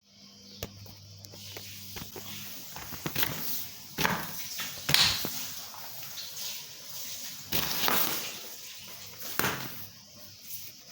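An air pump deflating an inflatable boat and swan float: a steady hiss of rushing air, with a low motor hum for the first couple of seconds. Several louder knocks and rustles come through it.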